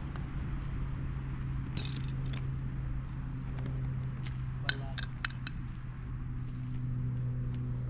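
A steady low mechanical hum, like a running engine, with two short clusters of sharp clicks, about two seconds in and about five seconds in.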